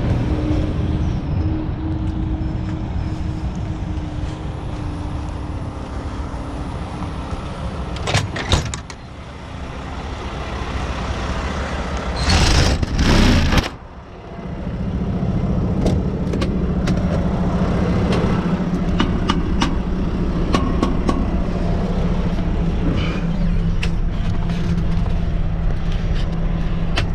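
Heavy truck engine running steadily, with a few sharp clicks about eight seconds in and a loud rushing burst of noise lasting about a second and a half, some twelve seconds in. A steadier, humming note sets in after that burst.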